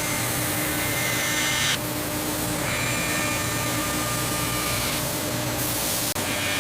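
Steady hissing machine noise of an aircraft assembly line, with faint steady hums. Its character shifts abruptly about two seconds in and again near five seconds, with a split-second dropout near the end.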